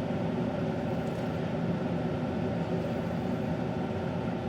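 Keurig K-Mini coffee maker heating its water, giving a steady steam noise: the sign that it is nearly ready to brew.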